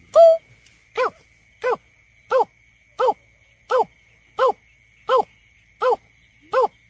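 Greater painted-snipe calls played as a lure recording. One longer note is followed by an even series of short notes, about three every two seconds, each rising and falling slightly in pitch. A faint steady high whine runs underneath.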